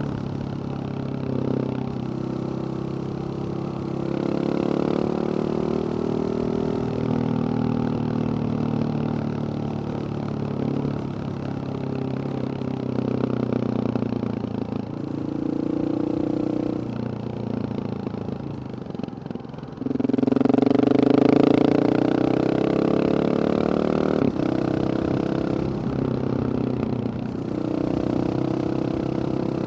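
Husqvarna 701 supermoto's single-cylinder four-stroke engine through a Wings aftermarket exhaust, running with revs repeatedly rising and falling. It gets noticeably louder with a hard burst of throttle about two-thirds of the way through.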